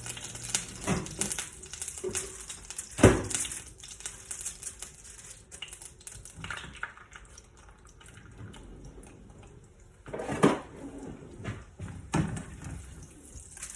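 Oil sizzling in a frying pan, the hiss dying away about six seconds in, with several knocks and clatters of utensils and dishes; the loudest knock, with a short ring, comes about three seconds in.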